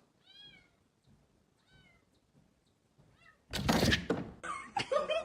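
A cat meowing softly three times, each a short call that rises and falls in pitch, then a loud thump about three and a half seconds in.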